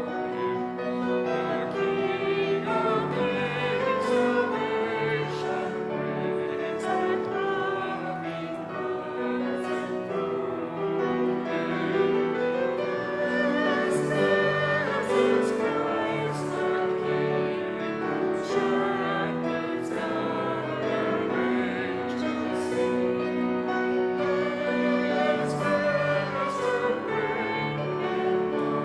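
Choir singing with piano accompaniment, with long held notes.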